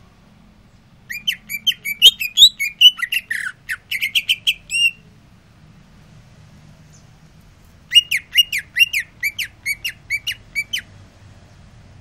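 Cucak ijo (green leafbird) singing: two loud phrases of rapid, sharp chirping notes, the first about a second in lasting some four seconds, the second starting about eight seconds in and lasting some three seconds.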